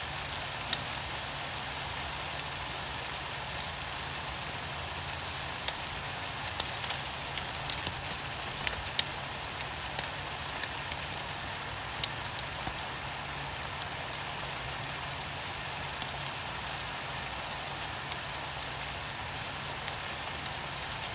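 Steady rain falling, with scattered sharp ticks of drops striking close by, and a low steady hum underneath.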